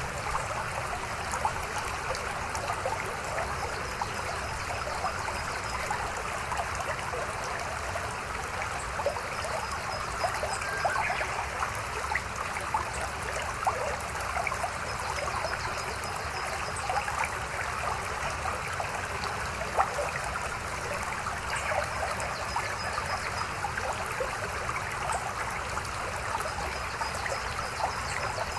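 Mountain stream flowing steadily, a dense babbling and trickling of water full of small splashes and gurgles.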